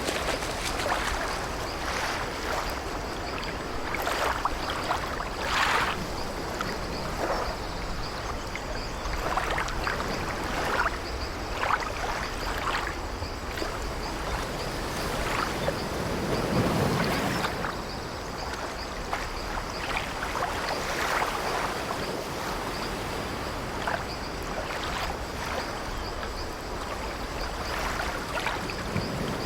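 Sea waves washing and splashing around an old wooden ship, with the ship's timbers creaking now and then. A deeper wash swells up a little past the middle.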